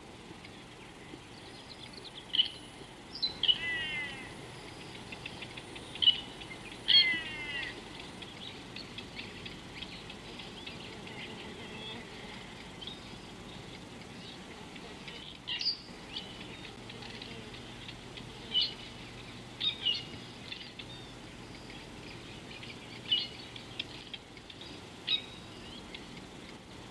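Wild birds calling in the bush: short, sharp chirps scattered throughout, and twice, a few seconds in, a quick run of notes falling in pitch.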